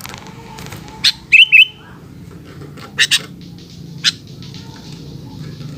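Sooty-headed bulbul calling: a few sharp chirps, two loud whistled notes about a second and a half in, a quick double chirp near three seconds and another chirp a second later, then a faint rapid chatter near the end.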